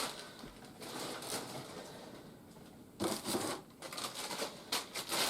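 Rustling and crinkling of packaging with light clicks as plastic toy pieces are handled and unwrapped. There is a quieter stretch in the middle before the handling picks up again.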